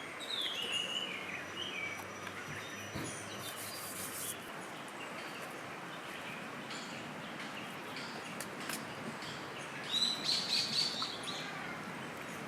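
Wild birds chirping over a steady background hiss. A few short falling chirps come in the first couple of seconds, and a louder run of rapid calls follows about ten seconds in.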